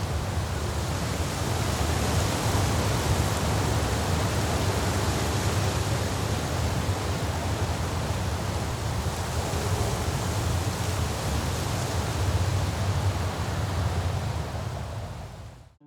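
Steady rushing outdoor noise with a heavy low rumble, as recorded by a trail camera's microphone; it fades out near the end.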